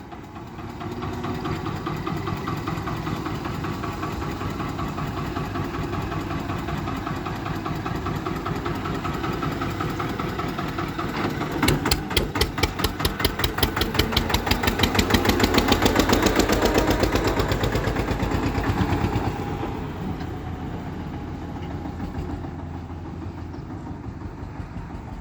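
Eicher tractor's diesel engine running steadily, then from about twelve seconds in its exhaust beats grow loud and distinct as it labours hauling a fully loaded trolley. The beats peak a few seconds later, then fade back to a quieter steady running after about twenty seconds.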